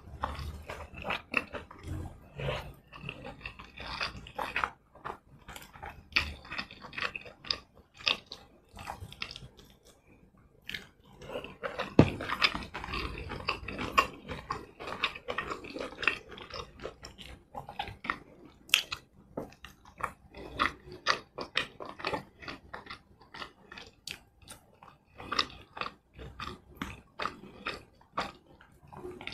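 Close-miked eating sounds: wet chewing and mouth clicks from eating rice and curry by hand, with fingers squishing and scooping the rice. A run of quick sharp clicks throughout, one much louder about twelve seconds in.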